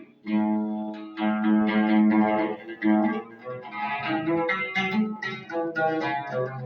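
Oud playing an instrumental introduction, a melody of plucked notes following one another closely.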